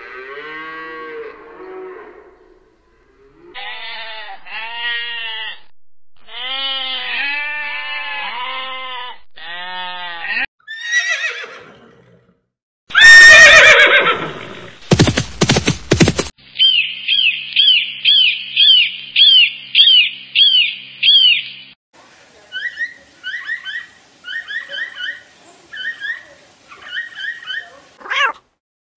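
A string of separate farm-animal calls, one after another: repeated rising-and-falling calls through the first ten seconds, the loudest call about thirteen seconds in, falling in pitch, then quick repeated chirping calls through the second half.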